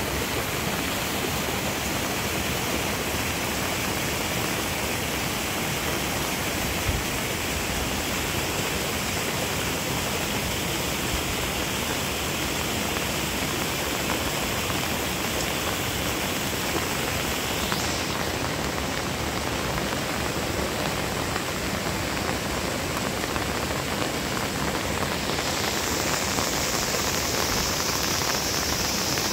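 Heavy rain falling steadily, a constant even hiss, with small shifts in its higher hiss about 18 and 26 seconds in.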